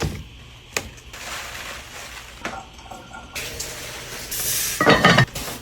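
Kitchen handling sounds: a few sharp clinks and knocks of dishes and utensils, a stretch of steady hiss, then a louder clatter about five seconds in.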